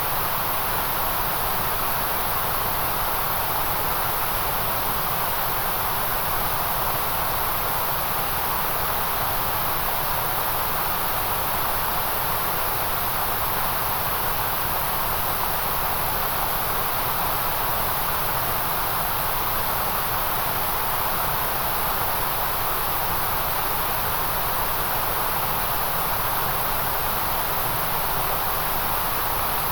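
Steady white noise: an even, unchanging hiss with no rhythm or events, strongest in the high treble and in a band through the middle.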